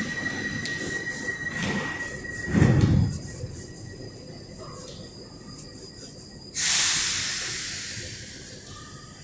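Metro train: a steady high whine that stops about two and a half seconds in, a loud low thump just after, then a sudden hiss of air near the end that fades away.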